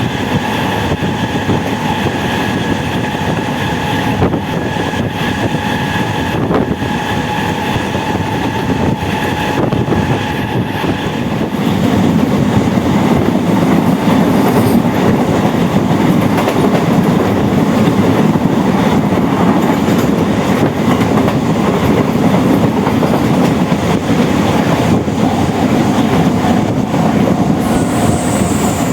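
MEMU electric multiple-unit train running on the rails, with the wheels clattering over the track and a steady whine in the first part. The running noise grows louder about twelve seconds in.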